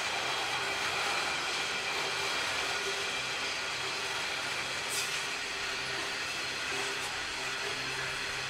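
Train rolling past steadily, with a short sharp click about five seconds in.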